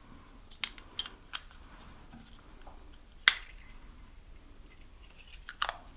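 Scattered light metallic clicks and clinks of hand work as a small motorcycle carburettor is taken off and handled, with one sharper click about three seconds in and a few more near the end.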